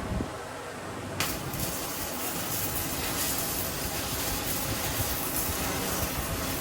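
Electric arc welding on a steel smoker: a steady crackling hiss that starts abruptly about a second in and stops near the end.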